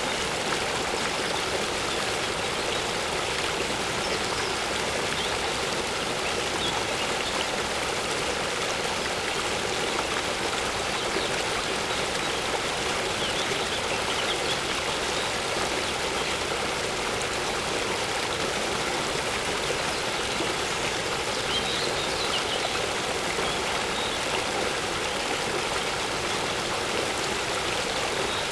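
Waterfall water rushing steadily, with faint bird chirps here and there.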